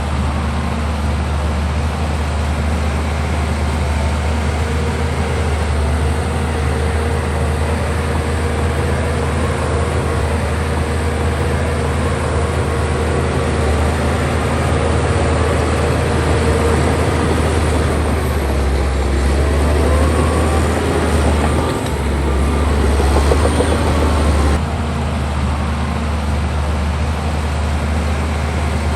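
Heavy diesel engine of a bulldozer running steadily under work. About two-thirds of the way through it grows louder, with shifting higher-pitched tones over the drone, then drops back suddenly.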